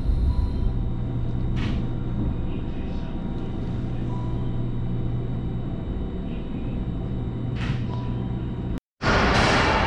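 Cabin rumble and hum of a JR Kyushu 885 series electric train rolling slowly along a platform as it pulls into a station, with a few faint brief squeaks. Near the end the sound cuts off abruptly, and after a moment a louder, harsher noise begins.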